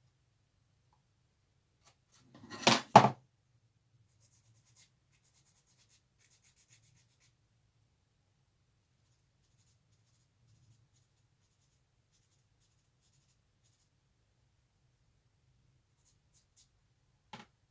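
A short, loud clatter of two knocks about three seconds in, then near silence with a few faint ticks and a small click near the end: small plastic kit parts and hobby tools being handled on a modelling bench.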